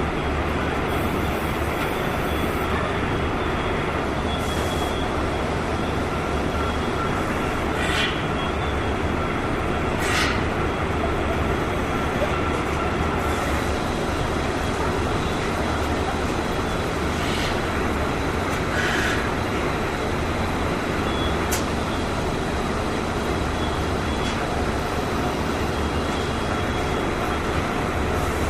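Steady machinery noise of an engine assembly plant floor, a continuous din with a low hum and a faint high whine, broken by a few sharp metallic clinks scattered through it.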